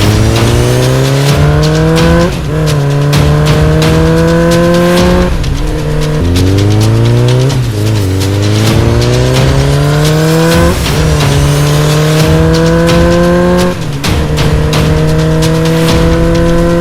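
Motorcycle engine accelerating hard. Its pitch climbs steadily for a couple of seconds, then drops sharply at each gear change, about five times.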